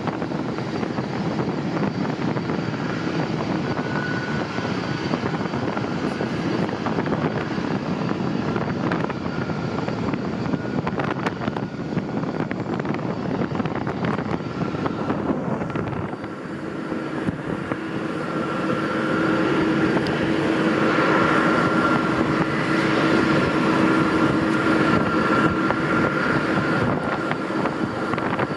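Jet airliner engines running with a steady rush and whine that grows louder about two-thirds of the way through.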